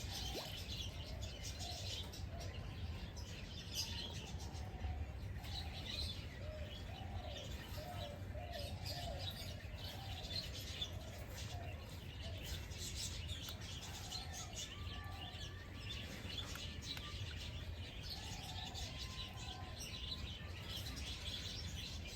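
Small birds chirping continuously in many short high notes, with lower wavering calls mixed in, over a steady low rumble.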